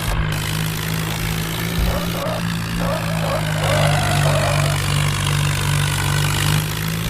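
Tractor engine running at a steady speed, holding one constant low pitch.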